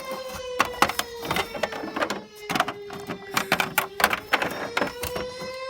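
Tornado warning siren wailing steadily, its pitch sinking slowly and then rising again, over many sharp clicks and taps.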